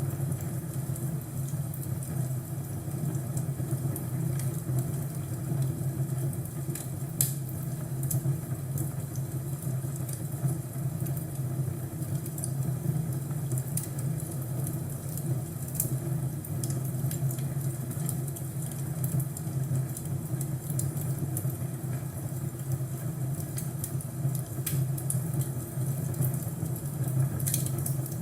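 Fireplace crackling: a steady low sound from the burning fire with scattered sharp pops and snaps, a few of them louder.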